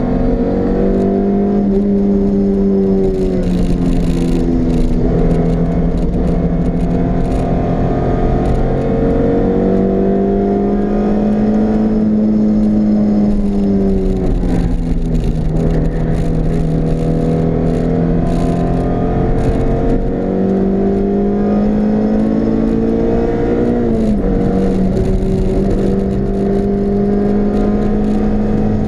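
Honda CRX engine heard from inside the cabin, pulling hard at speed. Its note climbs steadily and drops sharply a few times as it runs through the gears, over steady road and wind noise.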